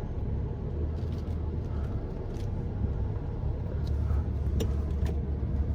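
Vehicle engine running with a steady low rumble, with a few faint clicks over it.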